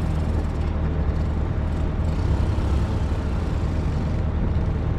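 Excavator's diesel engine running steadily, a low, even drone with no clear change in pitch.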